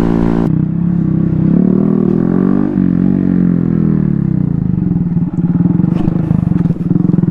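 Small motorbike or ATV engine running under the rider, its pitch rising and falling as the throttle opens and closes.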